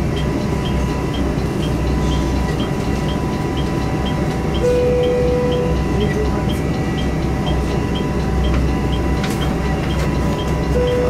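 Train cab sound: a steady low rumble from the railcar. About every six seconds a short mid-pitched tone sounds for about a second, over a quick, regular high ticking.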